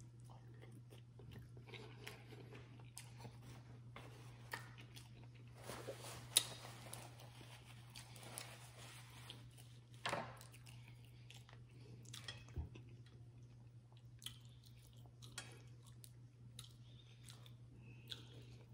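Close-miked mouth sounds of someone eating a seafood boil: chewing, with scattered small crunches and clicks of shellfish shell. The loudest sharp snaps come about six seconds in and again about ten seconds in, over a faint steady low hum.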